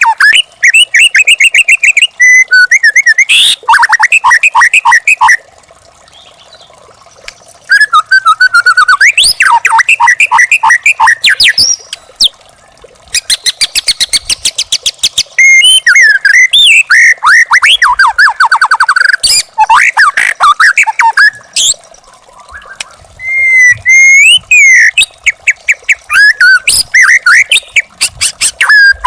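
White-rumped shama singing: loud, fast, varied phrases of clear whistles, chattering trills and rapid repeated notes, delivered in bursts separated by short pauses.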